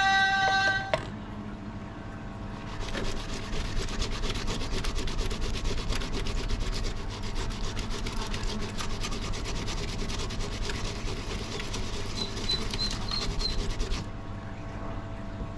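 Background music stops about a second in. From about three seconds in, the rusted axe is rubbed by hand with quick, continuous scrubbing strokes, which stop shortly before the end.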